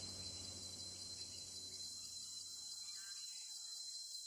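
Faint steady outdoor ambience: insects chirping, with a thin steady high-pitched tone over a low even hiss.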